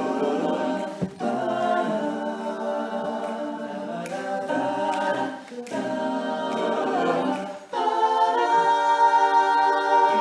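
All-male a cappella group singing sustained chords in close harmony, in phrases broken by short pauses, as the song's introduction.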